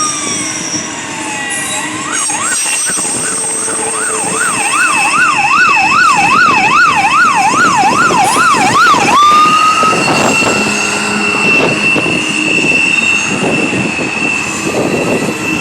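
Emergency-vehicle siren passing nearby: a slow wail, then a fast up-and-down yelp of about two cycles a second from about two seconds in, switching back to a slow rising wail about nine seconds in. A steady high-pitched tone sounds along with it from about four seconds in.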